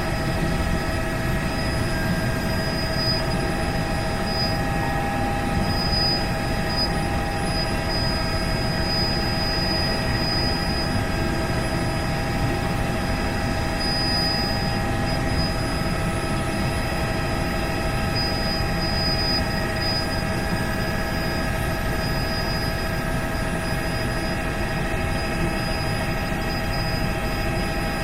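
Helicopter in flight: steady rotor and engine noise with a constant high-pitched turbine whine over it.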